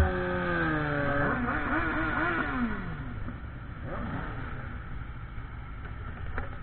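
Motorcycle engine dropping in pitch as it slows, with a short rise and fall in revs about a second and a half in, then settling into a quieter steady rumble.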